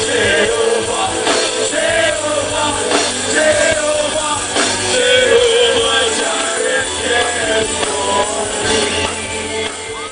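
A live band playing the song's outro, with a wavering sung melody over bass and drums. The level sags near the end.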